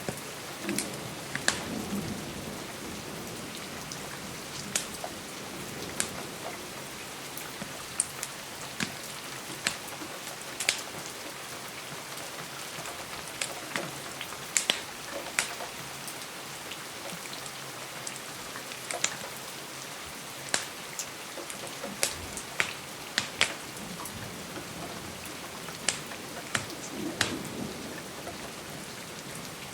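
Steady rain with irregular sharp pops and crackles every second or two, bunched together in places, over a low, even hiss. A brief low rumble comes near the start and again near the end.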